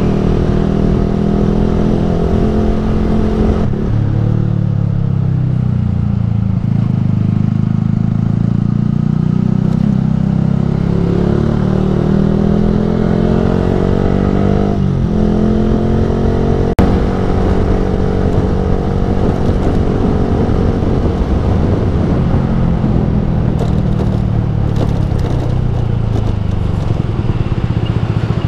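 Yamaha R15 V3's 155 cc single-cylinder engine through an aftermarket Ronin Musashi exhaust, heard while riding. The revs rise and fall with throttle and gear changes: a long climb about halfway through ends in a sudden drop at an upshift. A sharp click follows a couple of seconds later.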